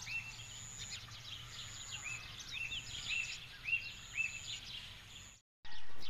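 Small birds chirping: short, repeated chirps every half second to a second over a faint steady hiss, with a thin high steady tone in stretches. The sound cuts out completely for a moment near the end.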